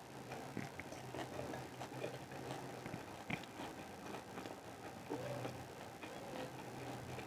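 A person chewing and eating close to the microphone, with irregular wet mouth clicks and smacks.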